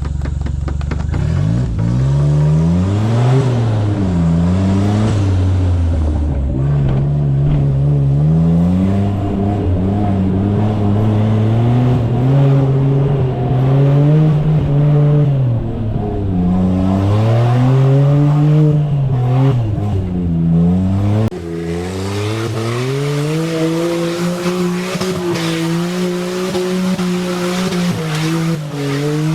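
Suzuki Jimny JA11's small turbocharged three-cylinder engine revving up and down again and again under throttle as it works through an off-road competition stage. The sound changes abruptly about 21 seconds in, where the low rumble drops away.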